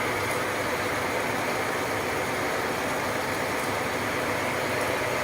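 A machine's engine running steadily at a constant level.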